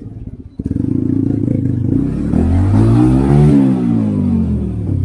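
Motorcycle engine running, then revved up with its pitch rising to a peak about three and a half seconds in and falling as the throttle is eased off.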